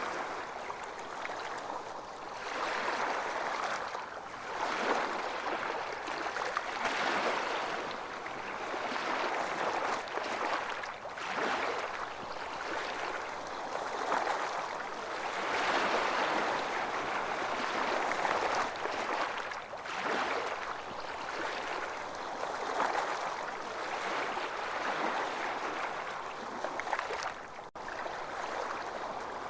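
Small waves breaking and washing up a beach, swelling and easing every few seconds. Near the end the sound cuts out for an instant.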